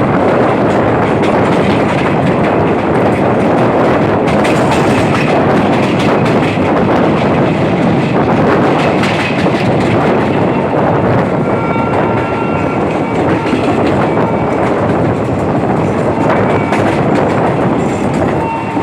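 Passenger train running along the track, heard from aboard: a loud, steady rush of wheel and rail noise, with a few faint steady tones about twelve seconds in.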